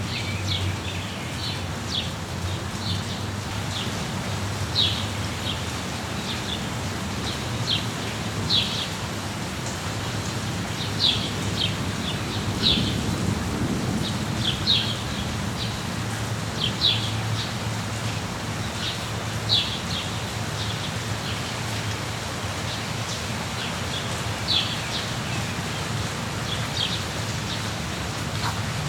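Steady rainfall with songbirds chirping: short high chirps repeating every second or two.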